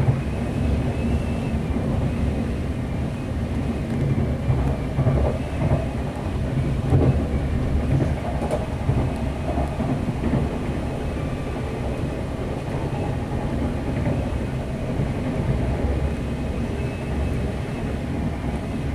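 Class 185 diesel multiple unit heard from inside the carriage while under way: a steady low rumble of the underfloor diesel engine and wheels on rail, with a few faint knocks from the track.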